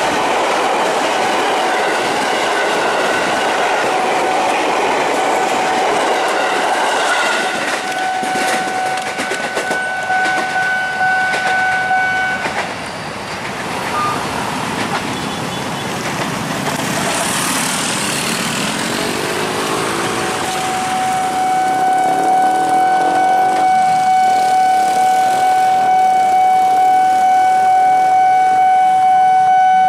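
KRL Commuter Line 205-series electric train passing close by with clattering wheels, while a level-crossing warning alarm sounds a steady tone. The sound drops away about twelve seconds in, and the alarm tone starts again loud and steady about twenty seconds in as the next train approaches.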